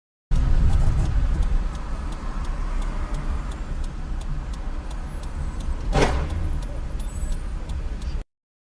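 A car driving, with a steady low rumble and faint regular ticking all through, and a single loud thump about six seconds in.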